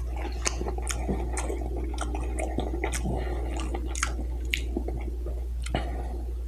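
A person chewing food close to the microphone, with many small, sharp, wet mouth clicks and smacks at an uneven pace.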